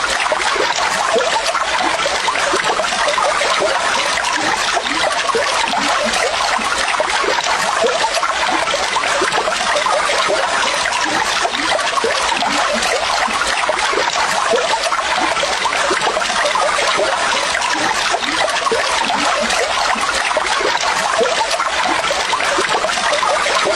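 Water trickling and splashing steadily, like a small stream or runoff babbling over stones.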